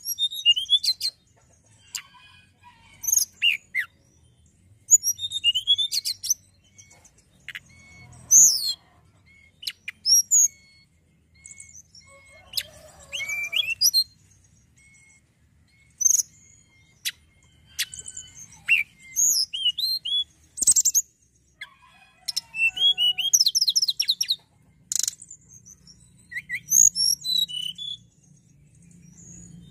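A tledekan gunung singing: short bursts of quick high chirps, trills and gliding whistles, with brief pauses between phrases.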